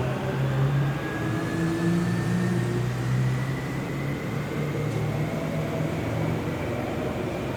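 Kintetsu electric train moving through the station, its traction motors giving a steady low hum under a thin whine that slowly rises in pitch as the train picks up speed.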